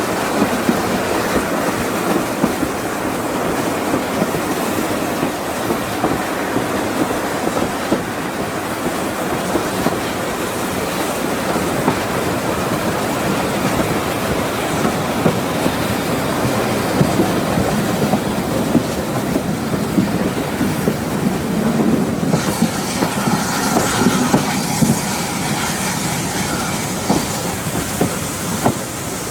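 Railway carriages of a standard-gauge heritage train running along the track: a steady rumble with wheels clicking and clattering over the rail joints. About two-thirds of the way through, a higher hiss grows stronger.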